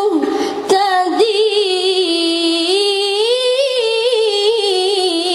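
Female voice chanting a Quran verse in the melodic tilawah style, holding one long ornamented note whose pitch wavers up and down. A brief hiss and a click interrupt it under a second in.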